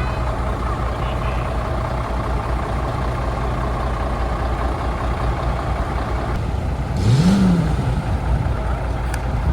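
Antique truck engine running steadily with a low rumble, then revving up and back down once about seven seconds in, together with a short hiss.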